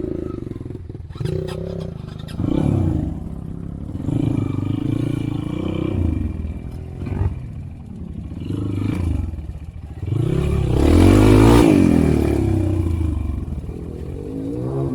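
Motorcycle engine revving up and down again and again as it is ridden, with some clattering from the bike. The loudest, longest rev comes about ten to twelve seconds in.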